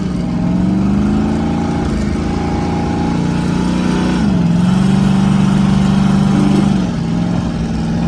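Twin-turbo LS V8 running under way, its engine note climbing gently, holding, then stepping down in pitch about halfway through and again near the end.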